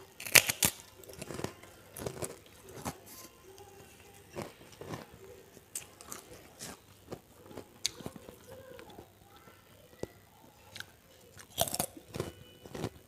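A person biting into a krupuk cracker with a loud crunch just after the start, then chewing it with smaller crackly crunches, recorded close on a clip-on microphone. Another loud crunching bite comes about a second and a half before the end.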